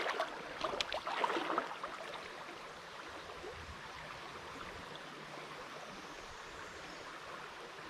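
Creek water running steadily, with a few short sharp clicks in the first two seconds.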